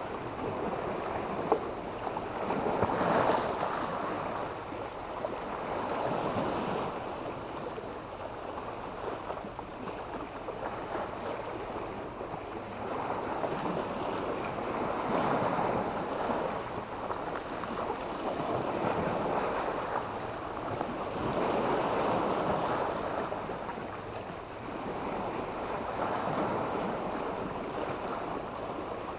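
Small sea waves breaking and washing up on a beach of sand and black stones, the surf swelling and ebbing every few seconds.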